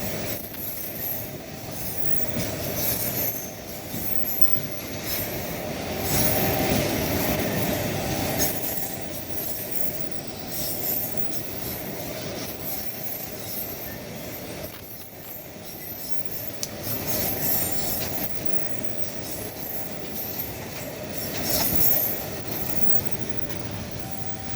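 Train running along the track, with wheel noise and squealing on the rails; the noise swells and eases without stopping.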